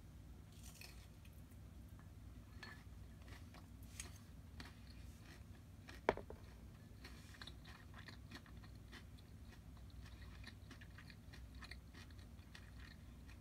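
Chewing of crispy, starch-coated fried horse mackerel (aji), with faint crunching ticks that grow denser in the second half. A single sharp click about six seconds in.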